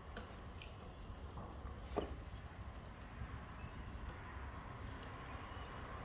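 A few faint clicks and one sharper knock about two seconds in, from handling an ignition coil and its plastic connector during a coil swap, over a steady low background hum.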